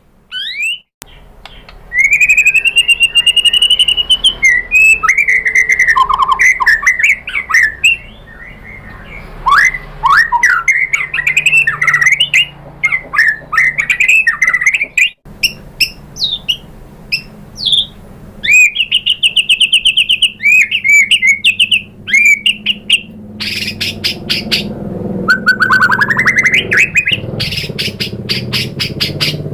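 White-rumped shama (murai batu) singing a long, varied song of loud whistled phrases, quick up-and-down glides and fast rattling trills and chatter, broken by short pauses about a second in and again about halfway through. It is a full, provocative song of the kind played to goad a caged shama into answering.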